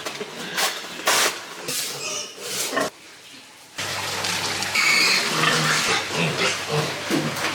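Pigs squealing and grunting: short, loud squeals repeat through the first three seconds, then after a brief lull a steadier mix of grunts and squeals.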